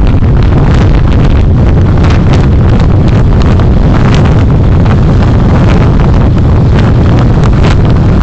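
Car driving, heard through a dashcam microphone: a loud, steady low rumble of engine and road noise, with frequent small ticks and rattles.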